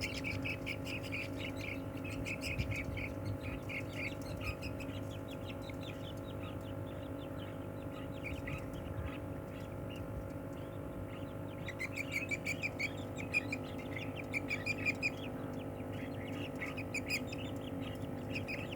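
Budgerigars chirping in quick runs of short, repeated calls, busiest about twelve to fifteen seconds in, over a steady low hum.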